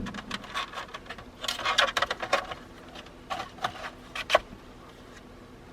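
Clicks and crackly rustling of gauge wiring and plastic parts being handled, densest about one and a half to two and a half seconds in, then a few separate sharp clicks.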